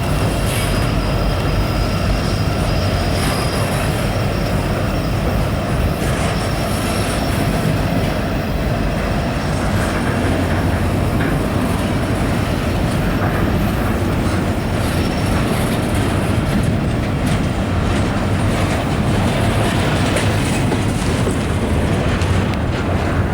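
Norfolk Southern train rolling past, a loud steady rumble of wheels on rail with a thin high wheel squeal held over much of it.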